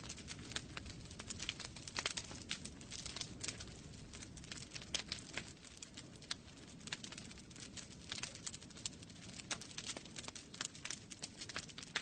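Wood fire burning in a fireplace, crackling with many irregular sharp pops and snaps over a soft low rumble of the flames.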